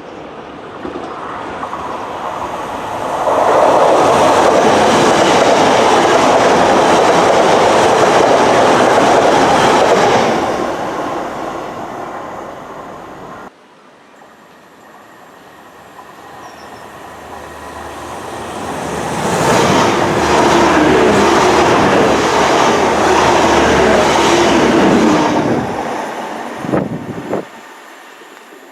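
A train passing close by, its noise building to a loud steady rush and dying away. After an abrupt cut, a second train passes the same way, ending with a couple of sharp knocks.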